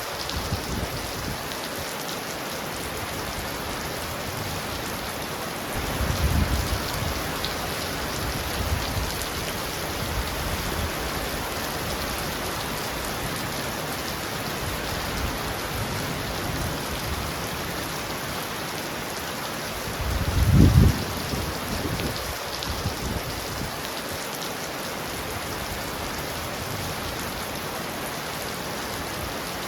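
Heavy rain pounding on a roof in a steady hiss, with two short low rumbles, likely distant thunder, about six seconds in and about twenty seconds in, the second the louder.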